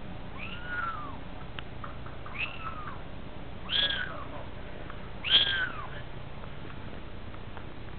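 Kittens mewing: four short, high-pitched mews a second or two apart, the last two the loudest.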